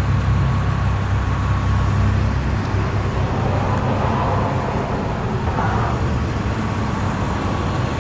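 A motor vehicle engine running steadily, a low hum over a haze of road noise; its low tone shifts slightly about two and a half seconds in.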